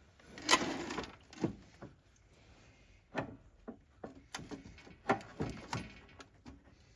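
A string of irregular knocks and clatters, with a louder scraping rattle about half a second in and sharper single knocks after it, like things being picked up, moved and set down.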